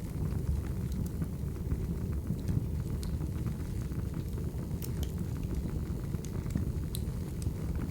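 Firewood fire crackling: a steady low rumble of flames with scattered, irregular sharp pops and snaps.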